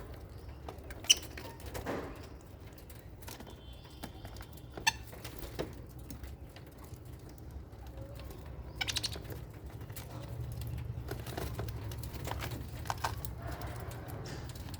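Small parrots (budgies and lovebirds) giving short, scattered chirps and calls, with a few sharp clicks; the loudest click comes about a second in. A steady low hum runs underneath.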